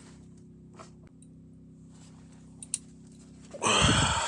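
A steady low hum with a few faint clicks, then near the end a loud, brief rustling scrape from handling of the PEX pipe and fittings.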